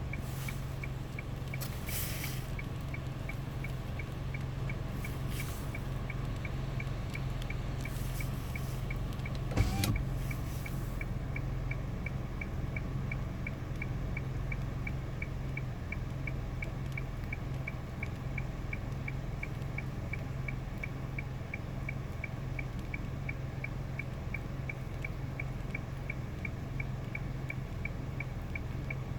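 Waterfall rushing steadily, a deep even roar of falling water. A single sharp knock comes just under ten seconds in, and a faint tick repeats about twice a second throughout.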